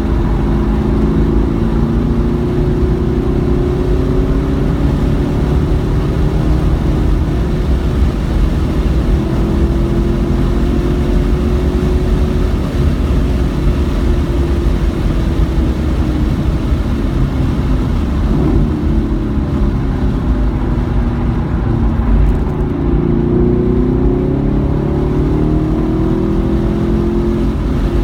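Car engine under hard track driving, its pitch rising under acceleration and dropping back again and again over a steady low rumble.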